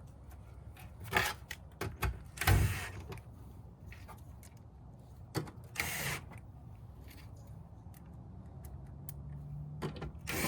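Scattered clicks, knocks and rustles of objects being handled, with a few louder rattles about a second, two and a half seconds and six seconds in.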